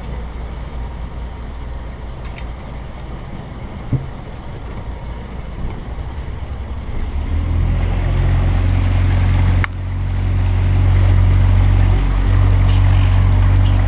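Boat engine running steadily, rising to a louder, even hum about halfway through, with a brief dip a couple of seconds later.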